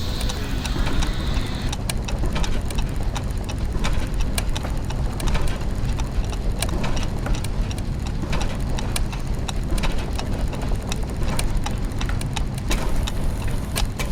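Layered clockwork machinery: many gears and ratchets ticking and clicking at uneven intervals over a steady low mechanical hum.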